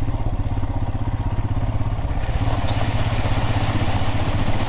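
Adventure motorcycle engine running steadily at low speed on a trail. About two seconds in, a broader rushing noise joins it as the bike goes through a shallow water crossing.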